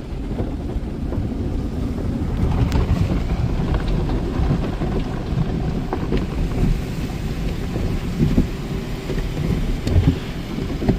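Broadway all-cloth car wash brushes and cloth strips washing the car, heard from inside the cabin: a dense, rumbling wash of rubbing cloth and spraying water, with a few louder thumps near the end.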